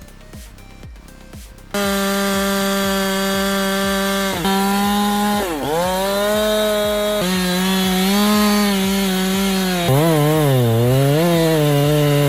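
Two-stroke chainsaw running at full throttle as it cuts into a tree. It starts abruptly about two seconds in, and its pitch sags several times as the chain bogs down under load in the cut.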